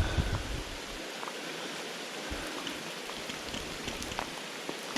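Steady hiss of rain falling and creek water running, with scattered faint ticks.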